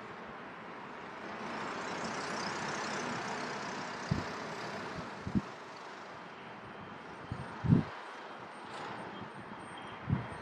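Aircraft engine noise swelling and easing off over a few seconds as a plane passes at an airport. Several short low thumps come through in the second half.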